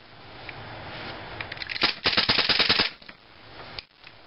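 KJW M9 full-metal airsoft pistol firing a rapid string of shots, about eight in under a second, with its metal slide cycling on each shot. A single click follows near the end.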